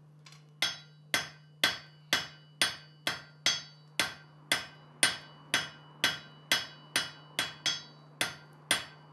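Blacksmith's hammer striking metal on an anvil in a steady rhythm of about two blows a second, each blow ringing briefly. The blows start about half a second in, over a low steady hum.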